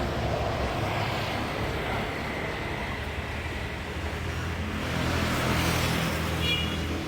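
Motor vehicle engine running with a steady low rumble that swells a little after about five seconds, and a short high beep about six and a half seconds in.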